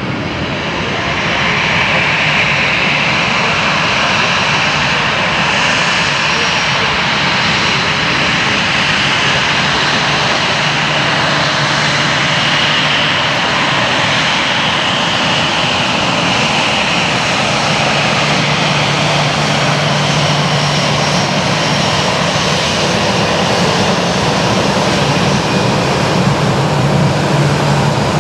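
Jet engines of a Lufthansa Airbus A319-100 running steadily, a loud even roar with a whine on top and a low hum beneath.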